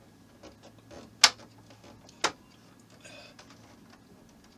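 Two sharp clicks about a second apart, the first the louder, with a few fainter ticks: small plastic model-kit parts being handled and set against the display base. A faint low hum runs under them and stops near the end.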